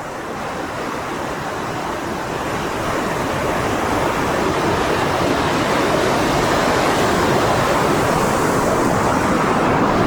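Lake Michigan waves washing on the shore, with wind, heard as a dense rushing that swells over the first few seconds and then holds steady. Recorded on a Sony ICD-UX570 voice recorder under a furry windscreen.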